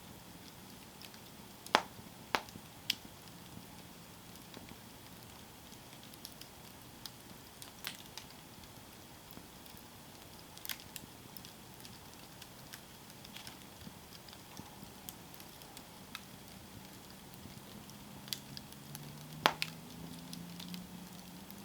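Campfire burning: wood crackling with scattered sharp pops over a steady soft hiss. The loudest pops come about two seconds in and again near the end.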